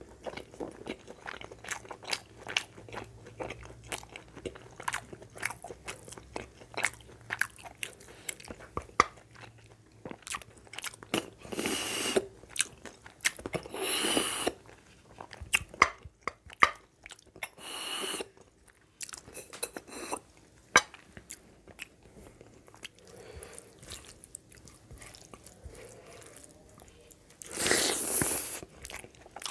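Close-miked mouth sounds of eating: biting and chewing meat off a bone, with dense wet clicks and smacks. A few louder stretches about a second long stand out, the loudest near the end as a handful of rice goes into the mouth.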